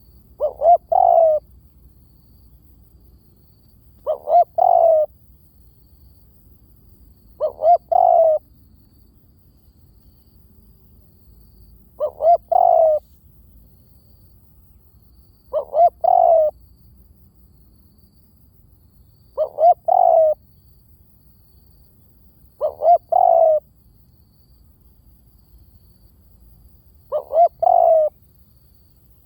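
Spotted dove cooing: a phrase of two short notes followed by a longer, lower-sliding note, repeated eight times at intervals of about three and a half to four seconds.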